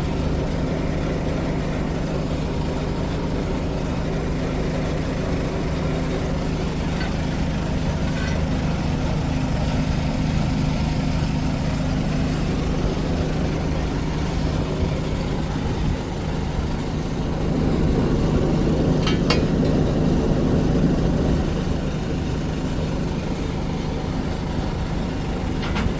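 An engine running steadily, getting somewhat louder for a few seconds about two-thirds of the way through, with a couple of faint clicks.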